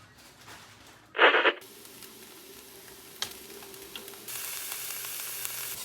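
Korean fried rice (bokkeumbap) frying in a pan: a short loud burst about a second in, a few sharp utensil clicks, then steady sizzling from a little past the middle.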